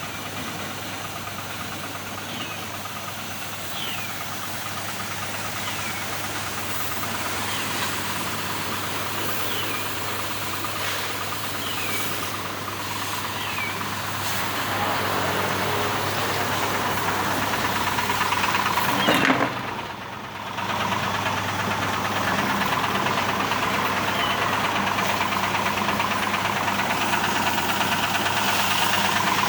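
Motor running steadily, likely a car-wash pressure washer, with a hiss of spraying water that grows from about halfway, cuts off briefly about twenty seconds in, then resumes.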